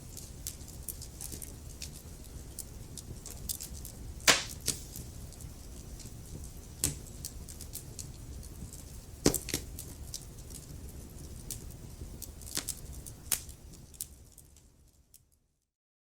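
Wood fire in a fireplace crackling, with a low rumble of flames and many sharp pops and snaps, the loudest two about 4 and 9 seconds in. The sound fades out near the end into silence.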